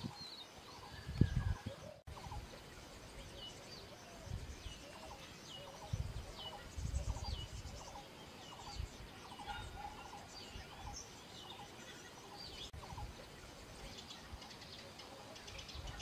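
Birds chirping, a run of short, hooked high notes repeated every second or so, with some lower short calls mixed in and occasional low rumbles.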